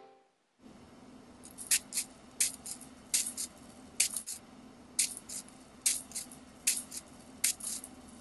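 Rhythmic swishing, mostly doubled swishes coming about every 0.8 seconds, over a steady low hum that starts just after a brief silence.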